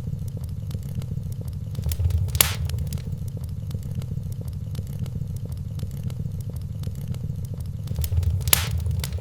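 Wood fire crackling in a fireplace: a low steady rumble with frequent small crackles, and two louder pops, one about two and a half seconds in and one near the end.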